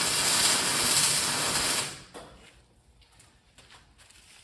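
Electric arc welding a short bead onto a steel spring, the arc stopping about two seconds in.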